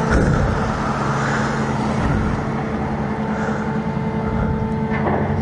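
A motor vehicle's engine running steadily with road traffic, a constant engine hum with a deeper hum joining near the end.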